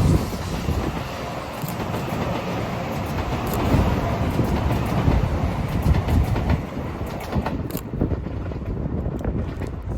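N700A Shinkansen train running on the rails: a dense rumble with short clicks, thinning out and getting quieter from about seven seconds in.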